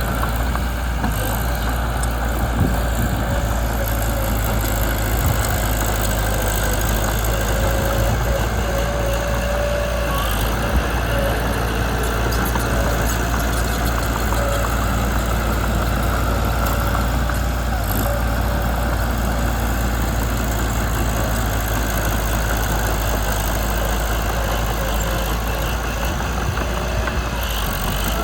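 Mitsubishi BD2 bulldozer's diesel engine running steadily.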